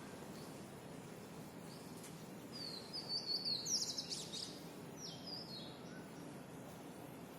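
A songbird sings one short phrase of quick, high chirps and trills about two and a half seconds in, then a brief chirp about a second later, over a steady background hum.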